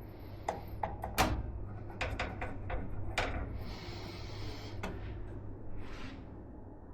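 Hands handling PC parts: a series of sharp plastic and metal clicks and knocks, the loudest about a second in, with a brief rustle around the middle and again near the end.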